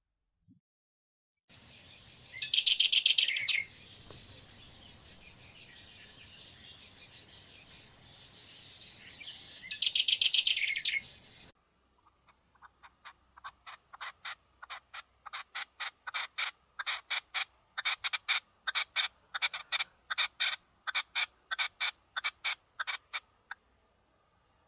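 Bird chirping: two short loud bursts of calls over a steady hiss, then a separate run of sharp, rapid chirps, a few a second, that grows louder and then stops.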